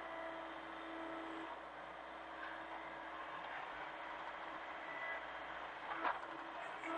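Hitachi mini excavator's diesel engine running steadily, with a short knock about six seconds in.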